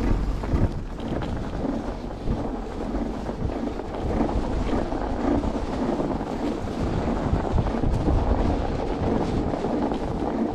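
Wind buffeting the microphone while riding through a snowstorm, an uneven low rumble with a hiss of wind and snow over it.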